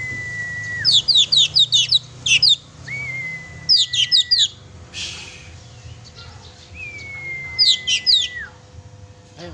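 Oriental magpie-robin (kacer) in full song: three phrases, each a long whistled note that holds steady and then drops, followed by a quick run of high down-slurred notes.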